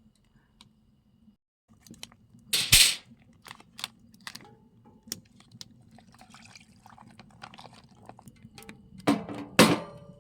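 Wood fire crackling in a small wood-burning stove, with scattered sharp pops. Two louder rustling bursts come about two and a half seconds in and again near the end.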